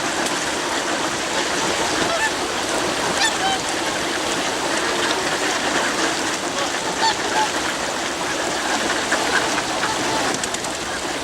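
A flock of swans and ducks calling over one another, with many overlapping honks and quacks, as they crowd in to be fed.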